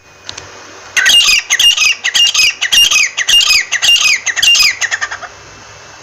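A bird (the 'teeter bird') giving a loud, rapid series of sharp, repeated calls, about two a second, each call with notes dropping in pitch. The calls start about a second in and stop after about five seconds.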